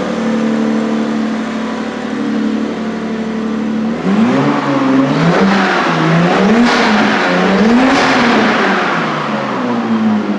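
Turbocharged Lexus RX300's 3.0 V6 idling through a newly built custom straight-through exhaust, then revved several times from about four seconds in, the pitch rising and falling with each blip before settling back to idle near the end. The engine is still cold.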